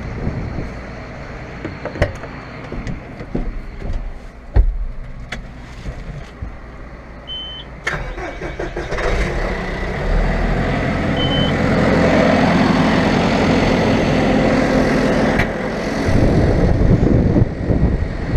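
Vehicle engine running while a grain wagon is manoeuvred into unloading position, with a few sharp knocks in the first five seconds. About ten seconds in the engine picks up and holds a steady, heavier pull, easing off near the end.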